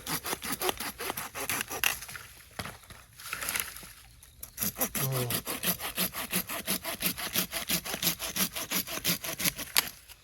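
Hand saw cutting through a piece of firewood in quick back-and-forth strokes. The strokes pause briefly about a third of the way in, then carry on steadily until near the end.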